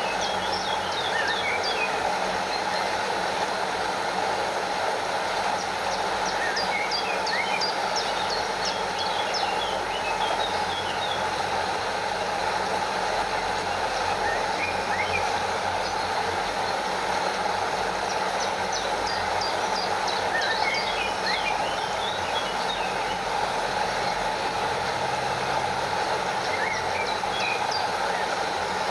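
Stream water rushing steadily over a small waterfall, with clusters of short, high, falling chirps several times.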